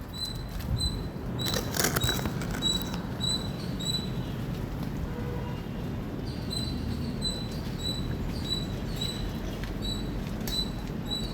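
Indian palm squirrel giving a run of short, high, sharp chirps, about two a second, with a pause of a couple of seconds midway. A brief loud crackle of noise comes about two seconds in, over a steady low rumble in the background.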